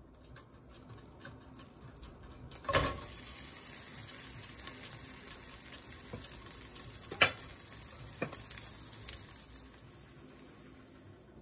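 Garlic butter sizzling in a stainless steel pan as shrimp and then rice fry in it, with stirring. A few sharp knocks come through, the loudest about three seconds in and about seven seconds in.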